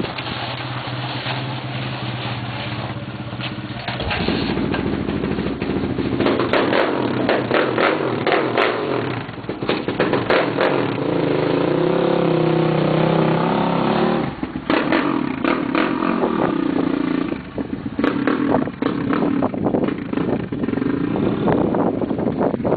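A child's dirt bike engine running as she rides it, its pitch rising and falling with the throttle, with a longer climb in pitch a little before the middle that drops off suddenly.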